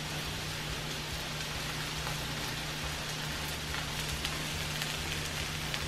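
Chorizo with egg and diced potatoes sizzling in frying pans, a steady hiss, with a few light clicks of a spatula against the pan in the second half. A steady low hum runs underneath.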